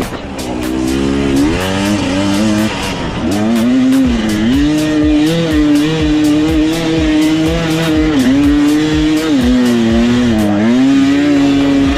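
Dirt bike engine revving under load, its pitch rising and dipping over and over as the throttle is rolled off and back on, with frequent sharp clicks and knocks over it.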